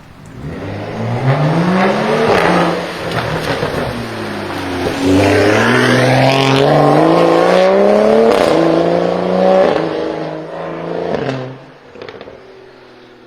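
BMW performance car engine accelerating hard, its pitch climbing in a short pull and then a longer one, before the sound falls away about eleven seconds in.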